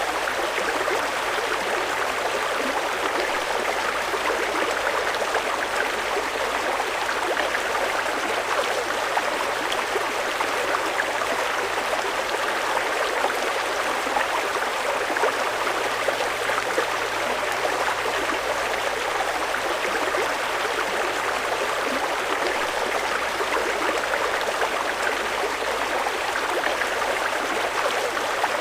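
Fast-flowing mountain river rushing over rocks, a steady, even roar of water with no breaks.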